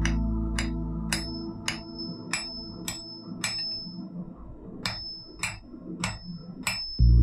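Hammer blows on steel over an anvil, about two a second with a short pause midway, each strike leaving a high ringing tone from the anvil.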